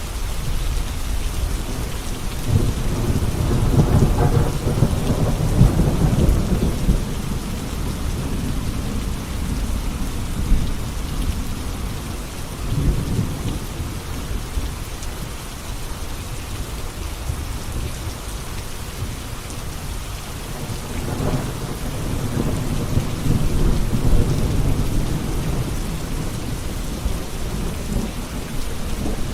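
Steady heavy rain with rolling thunder: long low rumbles swell and fade about two seconds in and again about two-thirds of the way through, with a shorter rumble in between.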